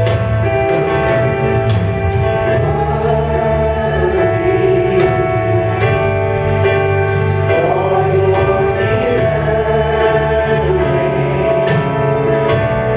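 Gospel worship music: singers over a live band holding sustained chords and bass, with a steady beat of regular drum and cymbal strikes.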